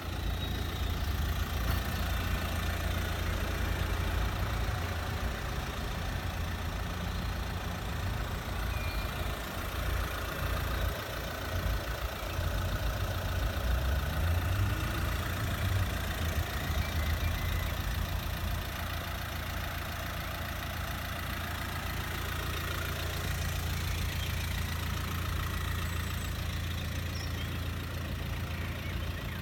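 Mercedes-Benz A180 CDI's diesel engine idling steadily.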